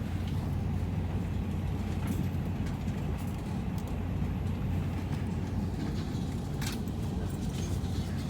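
Airliner cabin drone inside an Airbus A320neo: a steady low hum with a rush of air from the ventilation, and a faint click or two near the end.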